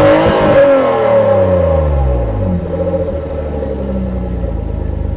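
BMW E34 M5's straight-six engine blipped, the revs falling smoothly back down over about two seconds and settling into a steady idle.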